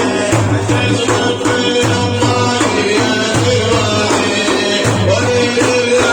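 Instrumental break of Iraqi Sufi praise music: frame drums keep a steady, driving beat under a held melodic line, with no singing.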